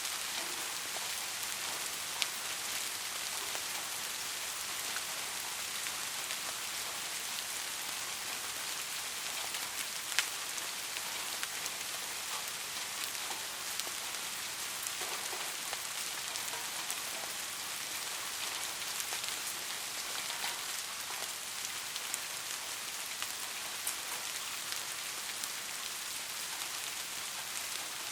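Steady rain falling on a surface, an even hiss with scattered individual drops ticking sharply, one louder drop about ten seconds in.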